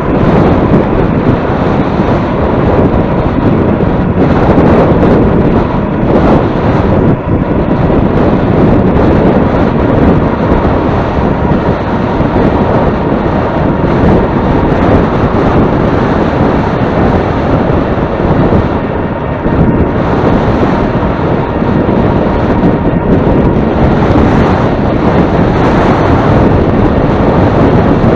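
Loud, steady wind buffeting the microphone while moving into a headwind, with a faint steady high tone underneath.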